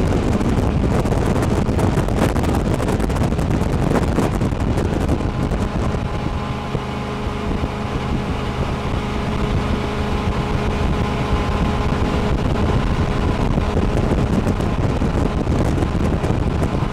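Jet boat's engine running steadily under way, with wind buffeting the microphone.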